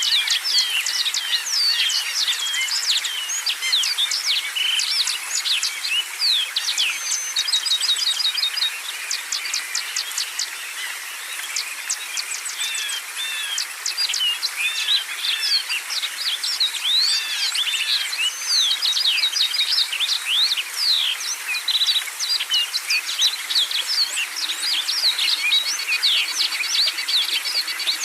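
A dense chorus of many songbirds singing and chirping over one another, with quick sweeping whistled notes and rapid trilled runs, thinning a little around the middle.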